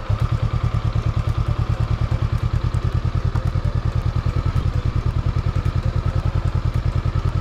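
Motorbike engine idling steadily, an even putter of about ten beats a second.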